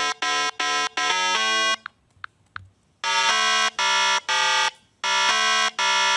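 A buzzy electronic jingle: short synthesized notes in quick groups, each one cut off sharply. The notes stop for about a second, a couple of seconds in, then start again as a string of half-second buzzy tones.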